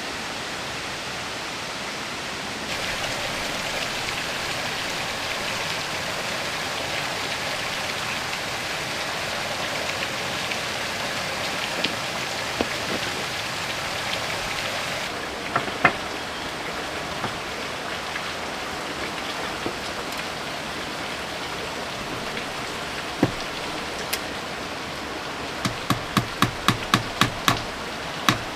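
Steady heavy rain falling, with a few scattered knocks. Near the end comes a quick, even run of about ten hammer strikes, about four a second.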